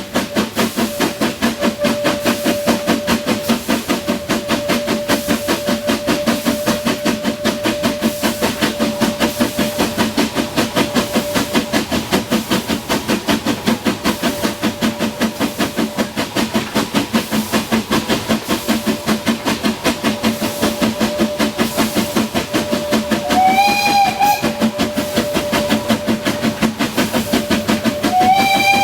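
Narrow-gauge steam locomotive working steadily, its exhaust beating in a fast, even rhythm, with two short whistle blasts near the end.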